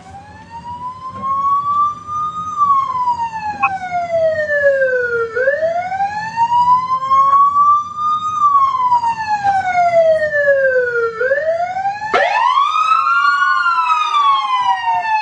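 Emergency vehicle siren wailing, slowly rising and falling in pitch and growing louder at first as it approaches. About twelve seconds in, a second siren joins, its wail overlapping the first.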